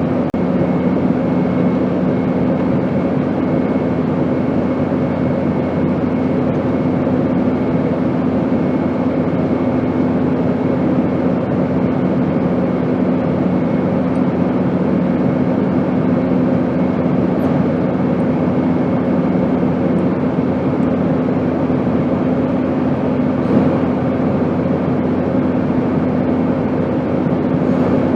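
Airplane noise: a steady, unbroken drone with a low hum running through it. One of the low hum tones drops away about two-thirds of the way through.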